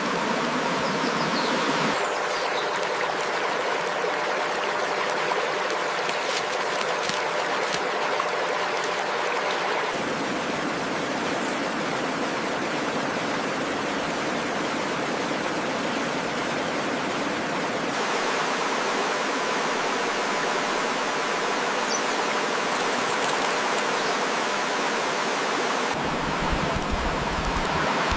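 Steady rushing water, like a stream, shifting slightly in tone every eight seconds or so.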